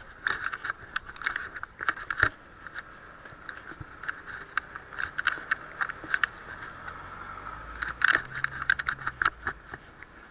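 Bicycle being ridden: a steady buzz with many irregular rattling clicks, heaviest about two seconds in and again about eight seconds in.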